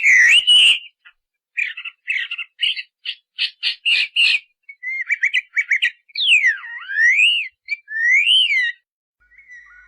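Bird calls: a quick run of short chirping notes, then a few clear whistled notes sliding up and down in pitch.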